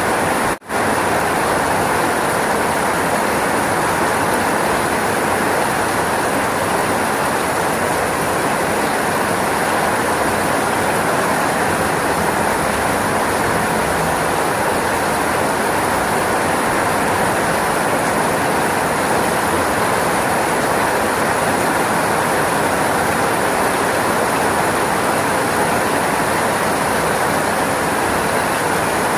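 Steady, heavy rainfall: a dense, even hiss of falling rain that briefly cuts out for an instant about half a second in.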